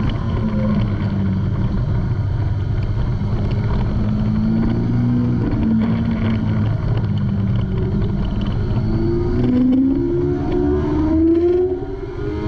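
Kawasaki ZX-6R 636 inline-four engine, heard onboard over heavy wind rush: it runs at a fairly steady pitch through a slow corner, then climbs in pitch as the throttle opens about nine seconds in. There is a short drop in level near the end.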